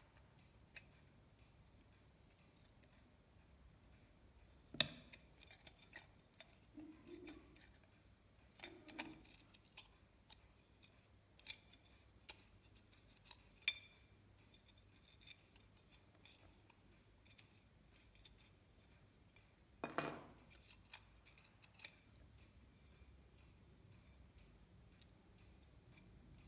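Near silence with a faint steady high whine, broken by a few sharp small clicks and clinks from handling parts and tools on the bench. The loudest come about five seconds in and about twenty seconds in.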